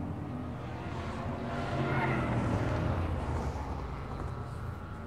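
Car engine running at speed under a haze of road and wind noise, its pitch shifting up and down, growing louder to a peak about two seconds in and then easing off.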